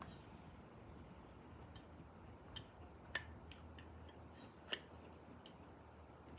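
Quiet eating sounds: about half a dozen short, sharp clicks and taps, scattered over a few seconds, above a faint low steady background hum.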